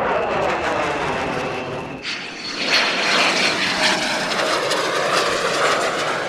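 Jet aircraft passing close by: a loud, steady engine rush with a swooshing, shifting tone as it goes past. A high-pitched whine joins about two seconds in.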